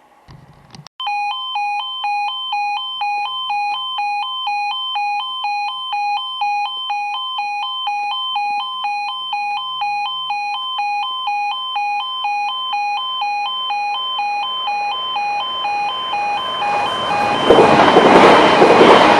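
Level crossing warning alarm sounding a steady two-tone warble, switching rapidly between a lower and a higher note, starting about a second in. Near the end the rushing noise of an approaching train builds up and becomes louder than the alarm.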